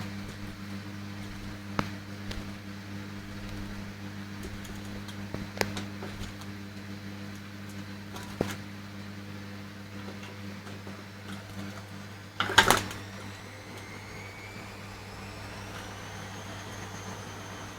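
Rosy-faced lovebird splashing in its bath water: a few single splashes and a short flurry of splashing about twelve and a half seconds in, over a steady low electrical hum.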